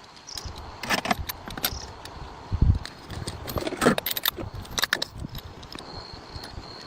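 Irregular metallic clinks and knocks of tools and engine parts being handled during diesel engine repair, with a heavier low thump about two and a half seconds in.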